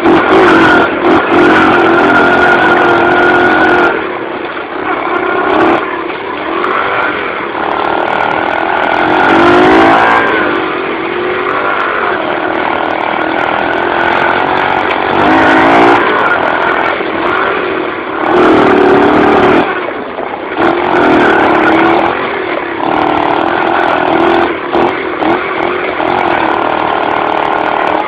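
Dirt bike engine revving up and easing off again and again while riding, with the loudest surges about ten, sixteen and nineteen seconds in.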